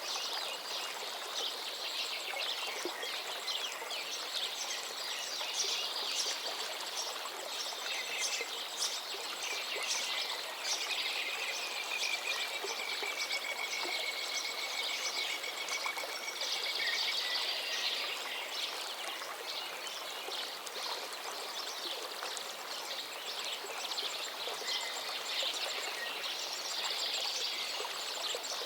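Several songbirds singing over a gently flowing forest stream, the birds chirping and trilling without pause, with one long whistled note held for several seconds in the middle.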